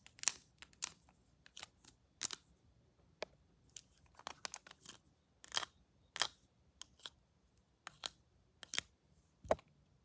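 Scissors snipping in irregular short, crisp snips, some in quick runs, as in a haircut role-play.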